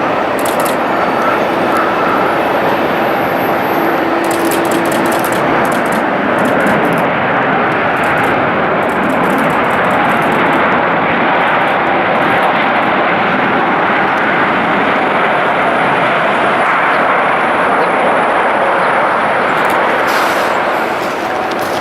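Jet airliner engines running, a loud, steady noise that holds at much the same level throughout.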